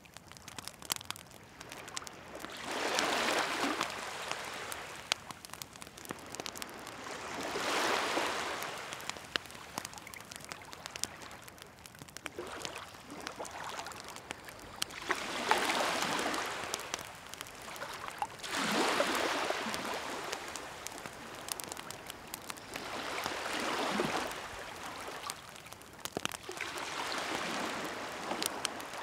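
Waves washing ashore in slow swells about every four seconds, six of them, with a wood fire crackling and popping throughout.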